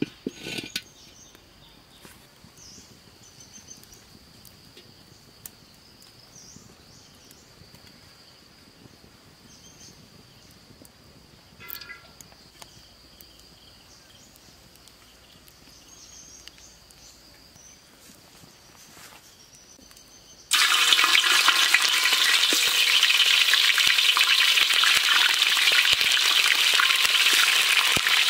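A metal clank as a steel wok is set down on the fire's hearth stones, then quiet with a faint steady high hum and a few small knocks. About two-thirds of the way through, chicken pieces go into the hot oil and a loud, steady sizzle of deep frying starts suddenly and continues.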